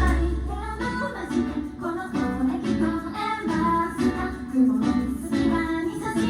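Live band music: the heavy bass drops out about half a second in, leaving a guitar picking a repeating pattern of notes in a steady rhythm.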